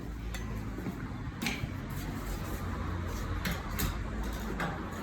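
Tools and wheel parts knocking and clanking during a car tyre change: a few sharp separate knocks over a steady low hum.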